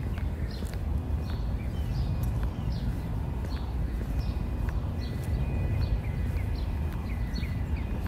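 Songbirds chirping: short, high, falling chirps repeat about twice a second. From about five seconds in, a thin high held note comes in with quick chirps beside it. A steady low rumble runs underneath.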